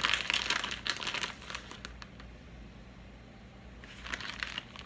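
Plastic packaging crinkling in bursts, likely the bag of shredded cheese being handled as cheese is sprinkled on. The crinkling is dense for about two seconds, pauses, then returns briefly near the end.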